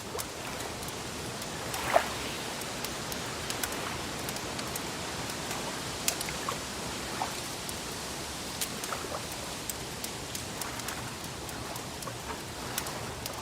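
Wood fire crackling: a steady hiss with scattered small pops and snaps, and one sharp pop about two seconds in.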